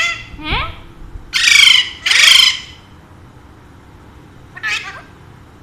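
Alexandrine parakeet giving two loud squawks in quick succession about a second and a half in, then a shorter, quieter call near the end.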